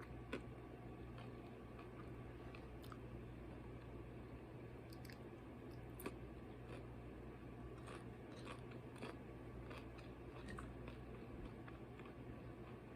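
A person eating quietly: soft chewing with small crunches and mouth clicks scattered throughout, a sharper click about a third of a second in and another about six seconds in, over a faint steady low hum.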